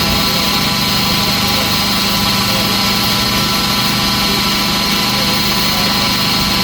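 Electric belt grinder running steadily with an even hum and a high whine, no hammer strikes, as a fuller is ground into a knife blade.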